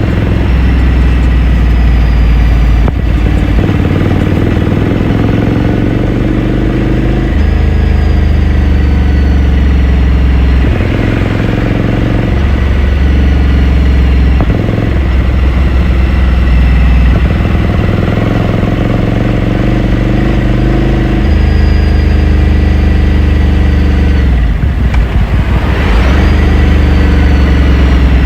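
Ducati Scrambler Sixty2's 399 cc air-cooled L-twin engine, heard onboard through its exhaust while riding, its note stepping up and down several times as the throttle and gears change.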